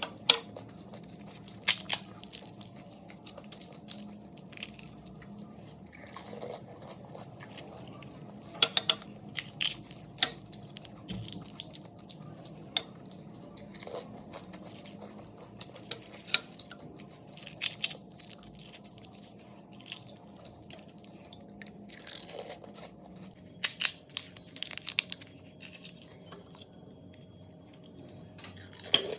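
Close-up eating sounds of pani puri: crisp hollow puri shells crunching between the teeth, then chewing, in irregular bites with short pauses between them.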